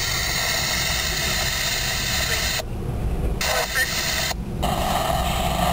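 CSX diesel freight locomotives rolling past close by, their engines and wheels making a low steady rumble heard from inside a car, with a steady radio-scanner hiss on top that cuts out briefly twice near the middle.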